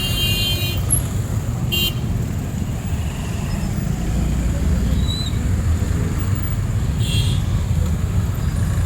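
City street traffic running steadily, with short vehicle horn toots: one at the start, a brief one about two seconds in, and another about seven seconds in.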